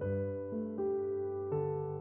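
Soft background music on piano or electric piano: sustained chords and notes changing about every half second.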